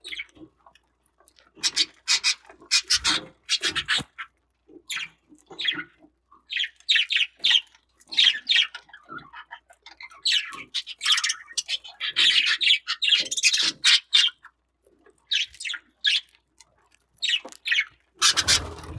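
Budgerigars chirping and chattering in many short, irregular, high-pitched bursts.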